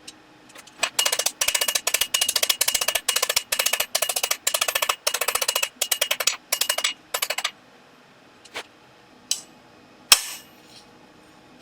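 Hand hammer striking hot steel on an anvil in quick runs of light blows, with a faint metallic ring, then three separate heavier blows, the last the loudest. The smith is shaping a leg of a set of forged calipers against the soft edge of the anvil.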